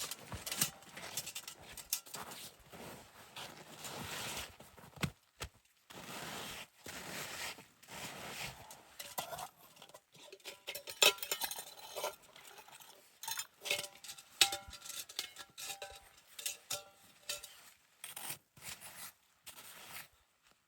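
Hard objects being handled: irregular clicks, knocks and clinks over rustling, with a few short ringing metallic notes around the middle.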